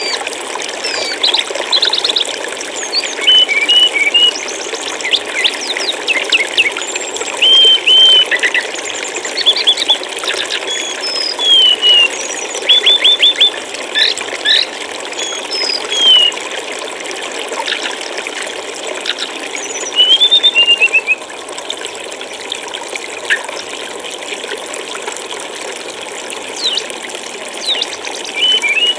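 Steady flowing stream water with small songbirds calling over it: short chirps, quick runs of repeated notes and downward-slurred whistles scattered throughout.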